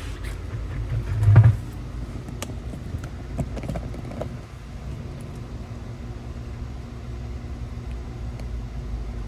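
A dull thump about a second and a half in, then a few light metal knocks and clicks, as a Porsche Cayman's rear CV axle is worked loose from the hub, over a steady low hum of shop background.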